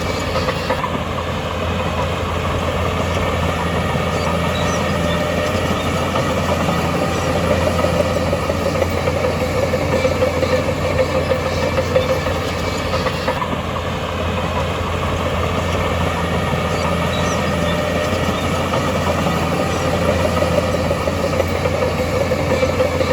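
Heavy diesel earthmoving machinery running steadily at work, with a constant low engine drone.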